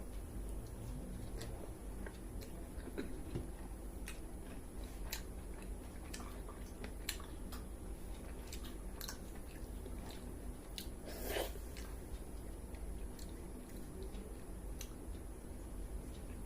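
A person chewing and biting food close to the microphone, with many small scattered clicks and one louder, longer noise about eleven seconds in.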